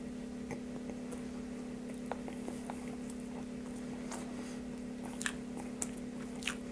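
A man chewing a mouthful of burger with a soft, stodgy brioche bun, heard as a few faint wet mouth clicks over a steady low hum.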